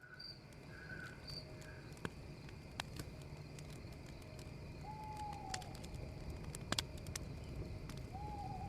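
Campfire crackling with scattered sharp pops, under night ambience. A bird gives a short falling call twice, about five seconds in and again near the end, with a few brief higher calls at the start.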